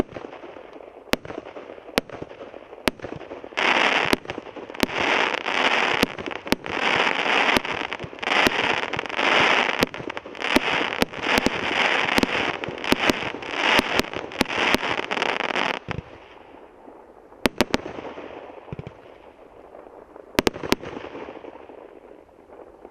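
A 100-shot multi-calibre firework cake firing. Sharp single bangs come about once a second, then a dense finale of crackling bursts and rapid bangs runs for about twelve seconds. It ends with a few last bangs and crackling that dies away.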